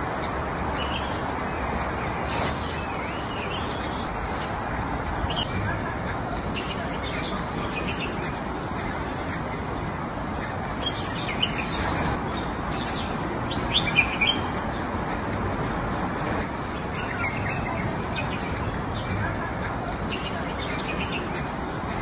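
Small birds chirping on and off over a steady rushing background noise, with a few short louder chirps about two-thirds of the way through.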